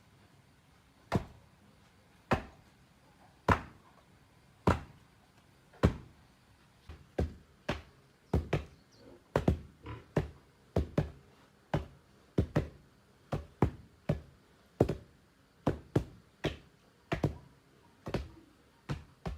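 Repeated sharp knocks, like hand-tool strikes. They come about once a second at first, then from about eight seconds in they turn quicker and uneven, often in close pairs.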